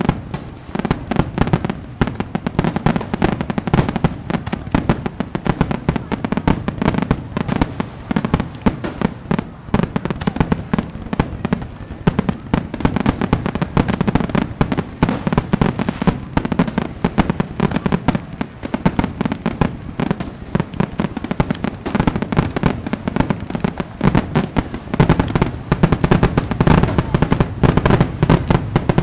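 Fireworks display: a dense, continuous run of bangs and crackles over a low rumble, growing somewhat louder near the end.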